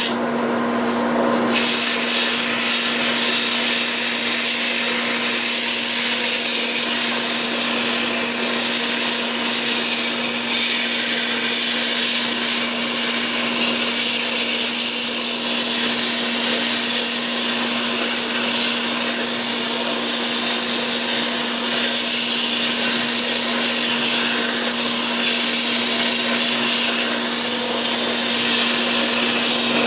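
Wood lathe running steadily with a constant motor hum, while sandpaper rubs against the spinning walnut handle and gives a steady hiss.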